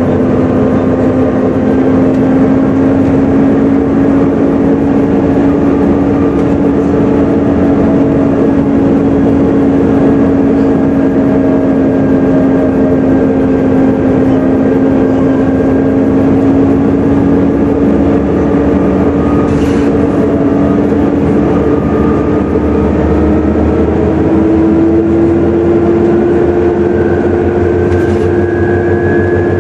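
Volvo B7TL double-decker bus heard from on board, running with a loud, steady hoover-like whine over the engine and road noise; the whine rises slightly in pitch about three-quarters of the way through.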